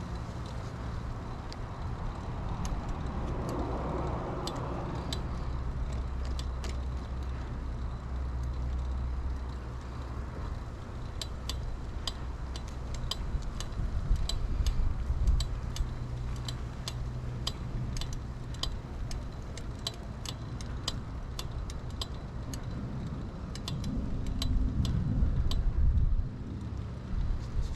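Riding sounds of a 2000 Kona Blast mountain bike: steady tyre and road noise with a low hum, then many sharp, irregular clicks and rattles from the bike over the second half. A louder low rumble swells near the end, like a motor vehicle passing.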